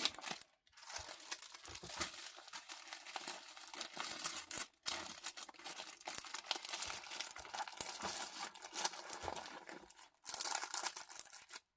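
Plastic packaging crinkling and rustling as it is handled, with a few brief pauses.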